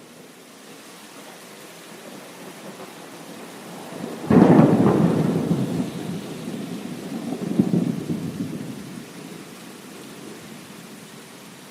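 Steady rain with a thunderclap that breaks in suddenly about four seconds in, then rumbles and fades over several seconds, swelling once more partway through before dying back to the rain.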